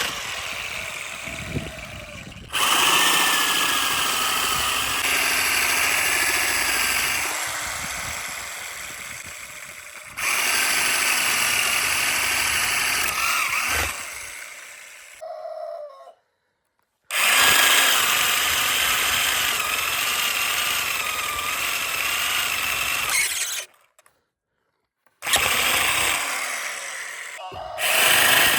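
Electric woodworking machine running with a steady whine that wavers as it works the wood. The sound comes in several separate stretches that start and stop abruptly, with two short silences between them.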